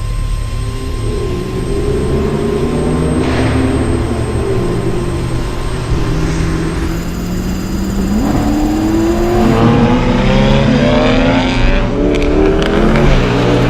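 Performance car engine revving and accelerating through an Armytrix valved aftermarket exhaust. The note climbs in pitch in several pulls, falling back between them like gear changes, and gets louder in the second half.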